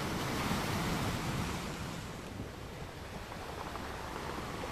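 Wind rushing against the microphone as a steady noise, swelling a little in the first second or two; no rifle shot is heard.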